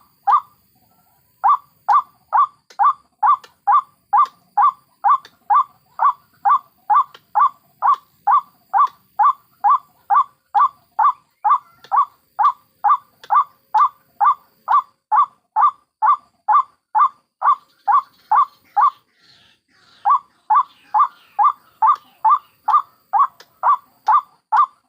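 White-breasted waterhen calling a short harsh note over and over, about two to three a second, in a long steady series. The series breaks off briefly just after the start and again about three quarters through, when a faint, higher scratchy chatter is heard.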